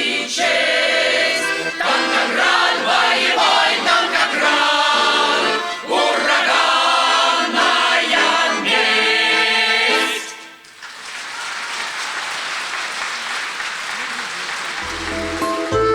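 A choir singing, ending about ten seconds in, followed by a few seconds of applause.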